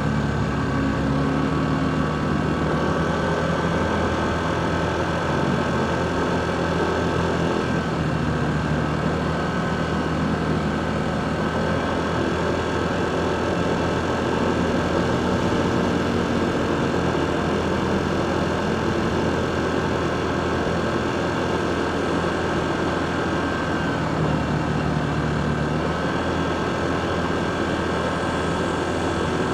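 Motorcycle engine running steadily from the rider's position, its note shifting slightly now and then, over a steady wash of city traffic noise.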